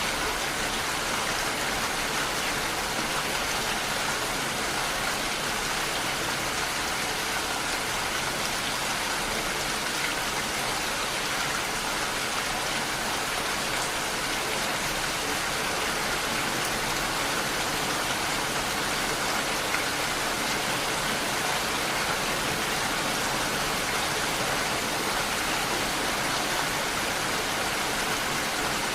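Steady rain falling, a constant even hiss with no breaks or thunder.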